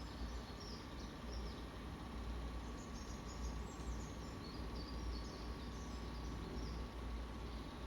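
Small songbirds chirping in quick, short calls again and again, played from a bird video on a screen, over a steady low hum.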